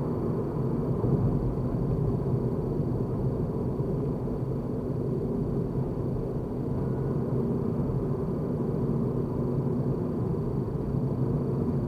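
A car being driven, with a steady low rumble of road and engine noise and no change in pace.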